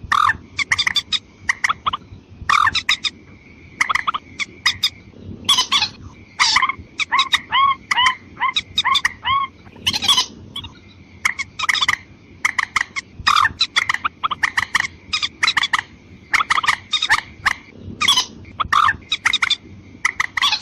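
Watercock lure calls: loud, sharp calls repeated in quick clusters, some as rapid clicking runs and some as short bent notes, with a faint steady high tone in the gaps.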